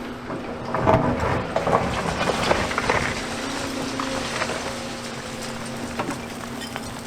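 Diesel excavator engine running steadily while demolition rubble crashes and clatters for about two seconds, loudest about a second in, followed by a few scattered knocks.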